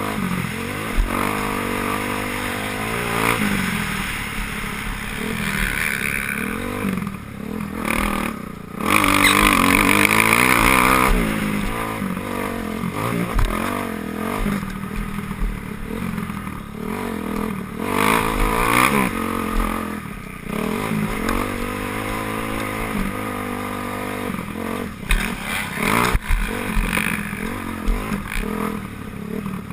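Motocross bikes racing, their engines revving up and falling back in pitch as they accelerate and pass. The loudest moment comes about nine seconds in and lasts about two seconds, as a bike goes by close.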